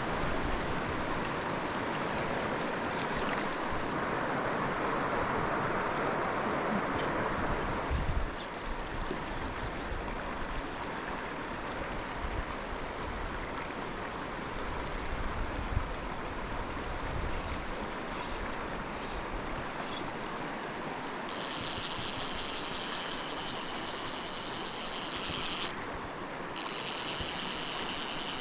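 Small mountain creek rushing steadily over rocks. From about three-quarters of the way in, a high insect chirring joins it.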